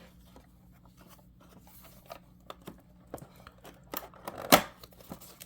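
A model train car's cardboard box and plastic packaging being handled and opened: scattered small clicks and crinkles that grow busier toward the end, with a sharper snap about four and a half seconds in.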